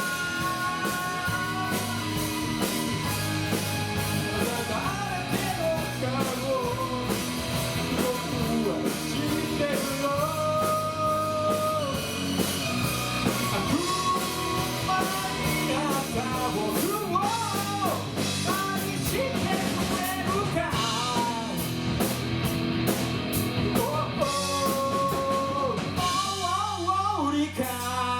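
Live rock band playing: a lead vocal sings a melody over electric guitar and drum kit.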